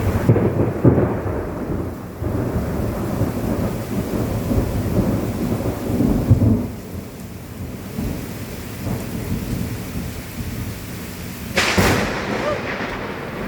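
Thunder rumbling and rolling in waves over steady rain, with a sudden sharp burst near the end.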